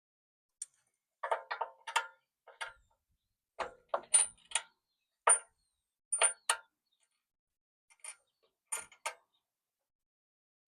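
Irregular metallic clicks and clinks of bolts and mounting hardware being handled and fitted to a steel bumper, some with a short high ring.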